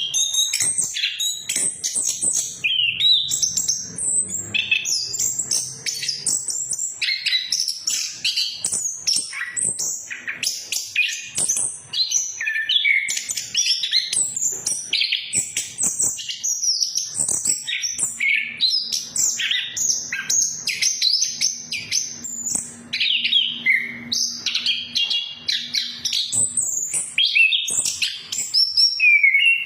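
Orange-headed thrush (anis kembang) singing a fast, unbroken run of varied high whistles and chirps.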